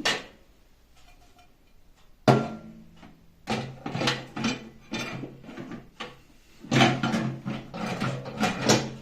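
A microwave's glass turntable plate and roller ring being fitted into the oven cavity. There is a sharp knock about two seconds in, then two spells of clunks and scraping, with a brief ring from the glass.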